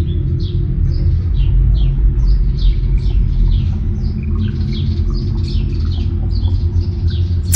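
Small birds chirping, many short falling chirps a couple each second, over a loud steady low rumble.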